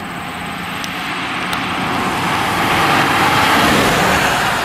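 2008 Cadillac CTS4, a 3.6-litre V6 tuned to about 380 hp, accelerating hard from a takeoff, heard from inside the cabin. The engine and road noise swell steadily louder as the car picks up speed.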